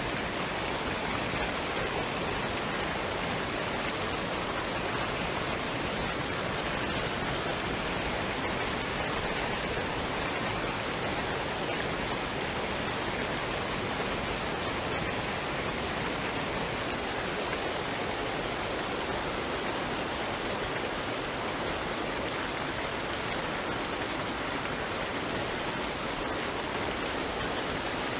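Waterfall and stream: a steady, unbroken rush of running water.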